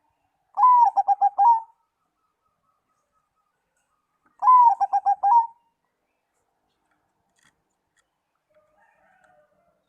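Zebra dove (perkutut) cooing: two song phrases about four seconds apart, each an opening note followed by a quick run of pulsed cooing notes. A much fainter call follows near the end.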